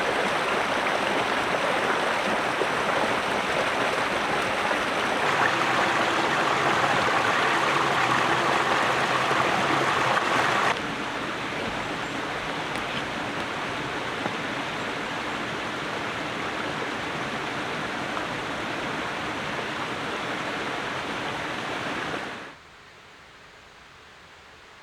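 Steady rushing of running water. It jumps in level about five seconds in, drops about eleven seconds in, and falls away sharply near the end.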